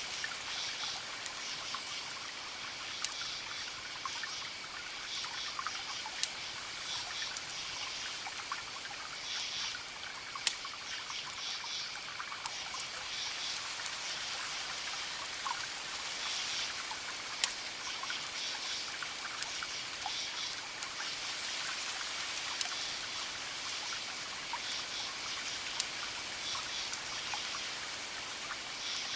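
Campfire crackling with a few sharp pops, over crickets chirping in a steady high trill with pulsing chirp trains, and a constant soft rush of distant ocean waves.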